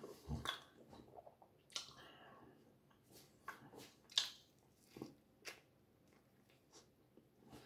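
Faint mouth sounds of someone eating flatbread spread with Nutella: chewing with scattered short wet smacks and clicks.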